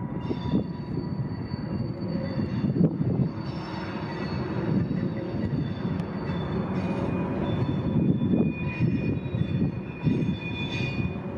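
Freight train rolling through a rail yard: a steady rumble with thin, high wheel-squeal tones that come and go, and wind buffeting the microphone.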